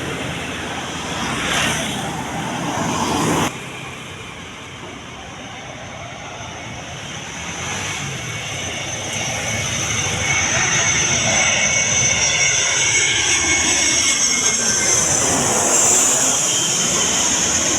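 Boeing 737 jet engines roaring, with a high whine and a slowly shifting pitch as the aircraft passes. The sound drops abruptly about three and a half seconds in, then grows louder again and stays loud.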